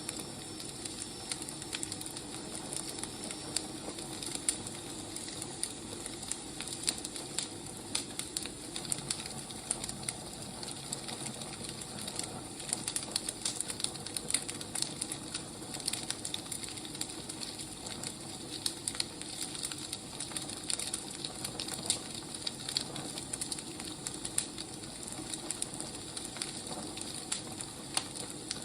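Wood fire crackling: irregular snaps and pops over a steady soft hiss of burning logs.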